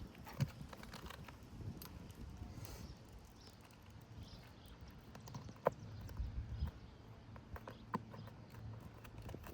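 Scattered knocks and taps of tools and roof shingles being worked loose while nails are pulled, the sharpest knock a little past halfway.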